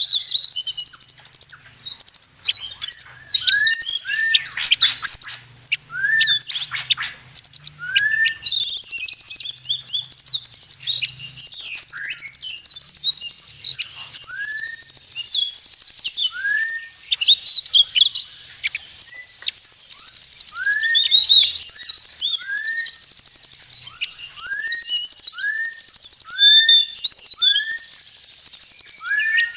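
Bird-call lure recording for migratory birds: a dense, rapid, high trill runs almost throughout, over short arched whistled notes repeated every second or two that come closer together near the end.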